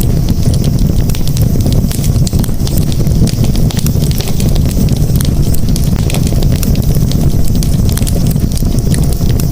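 Campfire crackling, with frequent small sharp pops over a steady low rumble.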